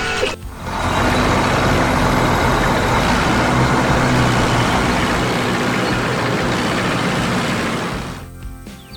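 Vehicle engine sound effect: a steady running noise with a low hum. It starts about half a second in and fades out near the end.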